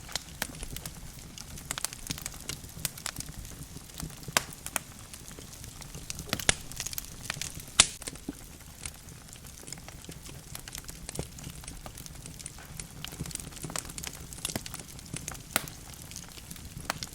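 Wood logs burning in a fireplace, crackling with frequent irregular sharp pops over a low steady rumble of flame. One pop about eight seconds in is louder than the rest.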